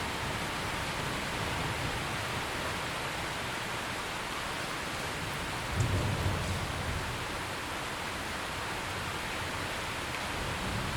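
Steady heavy rain falling, with a short low rumble of thunder about six seconds in.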